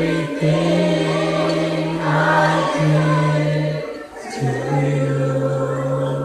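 Gospel worship song playing: a choir singing long held notes over sustained low chords, with a brief break about four seconds in.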